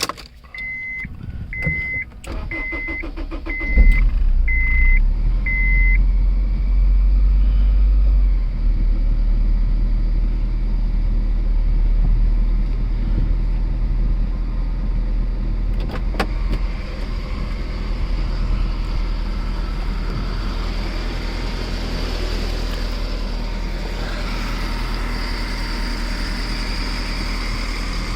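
Car cold start: six short beeps about a second apart, the starter cranks briefly and the engine catches about four seconds in. It runs at a loud fast idle that eases down after a few seconds and then idles steadily.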